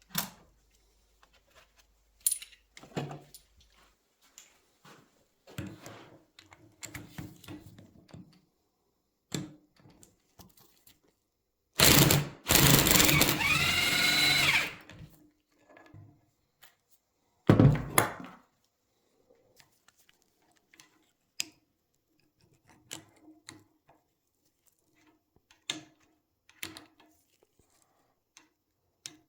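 Hand tools clicking and knocking against metal parts, then a power tool spins up with a rising whine and runs for about three seconds, followed by one loud knock.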